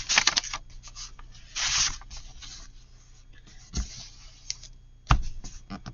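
Heavy cardstock being handled and rubbed down into a journal: a short rustling swipe about two seconds in among scattered light paper ticks, then two sharp knocks, the second, about five seconds in, the loudest.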